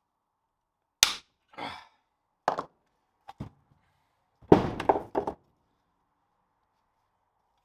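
Sharp metal snaps and knocks as the bent old brake shoe springs of a Land Rover Series 2 drum brake are cut off: one sharp snap about a second in, a few more knocks, then a quick cluster of clanks near five seconds.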